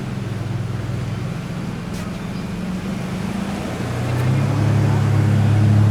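A vehicle engine running close by with a steady low hum, getting louder about four seconds in as it nears, over light traffic noise.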